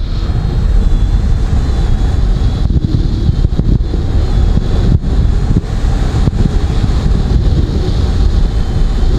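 Strong wind buffeting the microphone in free flight on a glider, a heavy gusting rumble with a faint high steady tone above it.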